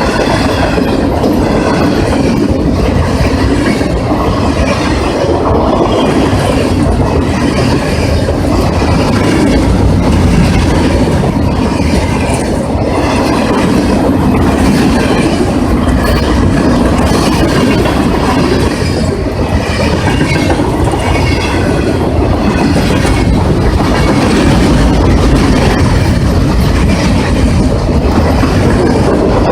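Freight cars of a passing train rolling by: a loud, steady rumble of steel wheels on the rails, with a wavering, high-pitched wheel squeal coming and going every second or so.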